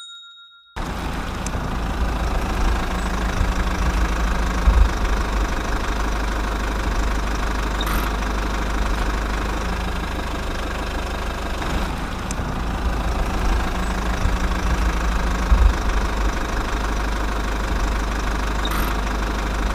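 Small mini diesel engine driving a water pump, running steadily with a strong low rumble. It starts about a second in, after a brief silence.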